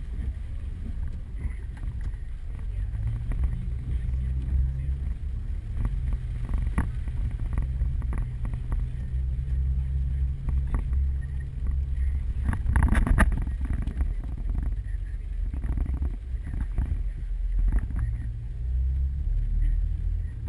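Hailstones knocking irregularly on the car's body and windshield over the low rumble of the vehicle driving, heard from inside the cabin. A heavier cluster of hits comes about two-thirds of the way through.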